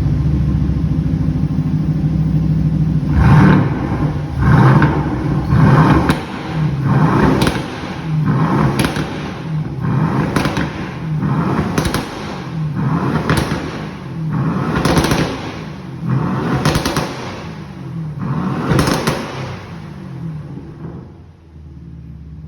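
Aston Martin DB11's 4.0-litre twin-turbo V8 idling, then blipped about a dozen times in quick succession, each rev rising and dropping back roughly every one and a half seconds. It settles back to a quieter idle near the end.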